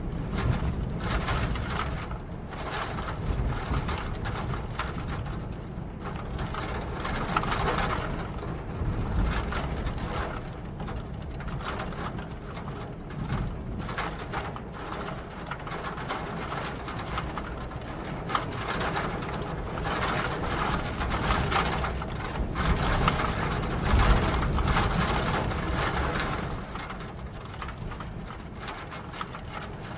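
Rain falling as a dense stream of fine ticks and taps, with a steady low rumble underneath; it swells and eases every few seconds.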